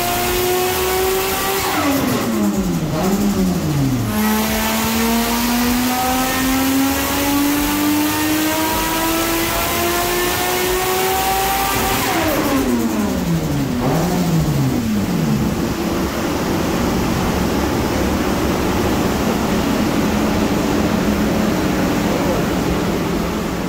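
Turbocharged Nissan RB20 straight-six in a Ford AU Falcon, run under load on a chassis dyno. Just after the start a pull ends and the revs fall away. From about 4 s the revs climb steadily for some eight seconds in one long pull, then drop again. For the last several seconds it runs steadily at lower revs.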